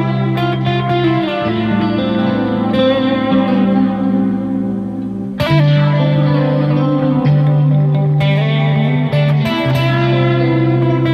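Electric guitar, a Squier Classic Vibe '60s Stratocaster through a Boss GT-1 effects unit, playing slow, sustained chords and melody notes with reverb over a looped part. A fresh chord is struck about five seconds in.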